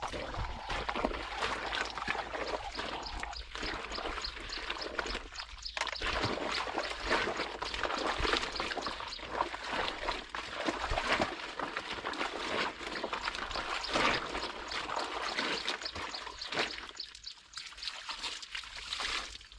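Water sloshing, splashing and trickling as clothes are washed and rinsed, in an uneven run of splashes with a short pause about six seconds in and a quieter stretch near the end.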